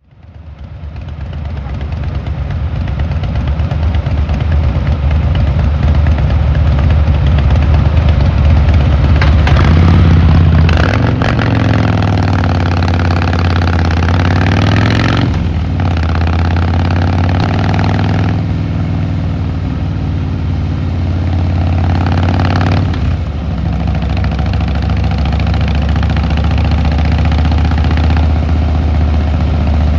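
Harley-Davidson Fat Boy Lo's V-twin engine and exhaust under way, fading in at the start, then running steadily with the note rising and falling with the throttle and a few short dips.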